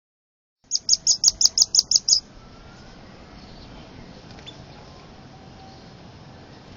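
A rambatan (nuthatch) calls a quick run of about nine sharp, high-pitched notes, roughly six a second, for about a second and a half, then stops.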